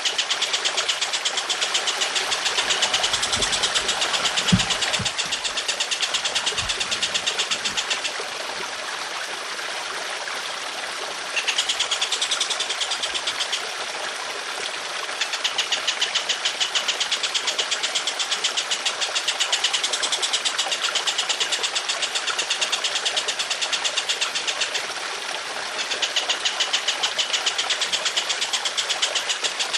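A bird's rapid, harsh rattling trill in long unbroken bursts, about eight and ten seconds long, with brief pauses between. The trill runs over steady trickling water, with a few low thumps a few seconds in.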